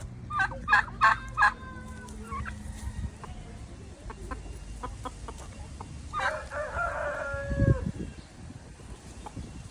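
Domestic fowl calling. A quick run of four loud calls comes about half a second in, and one longer call about six seconds in.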